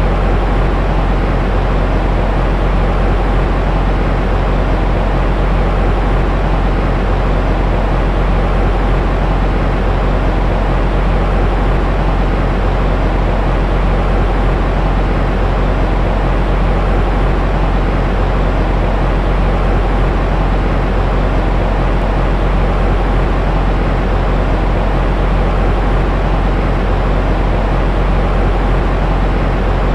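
Steady, unchanging baby-soothing noise, heaviest in the low end with a deep rumble and thinning out toward the highs, without breaks or changes.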